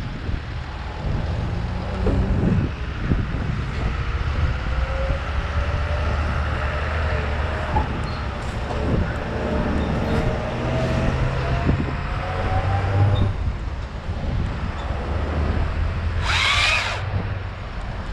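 Engine running steadily under wind noise, with a faint, slowly rising whine through the middle. About sixteen seconds in comes a short, sharp hiss with a squeal.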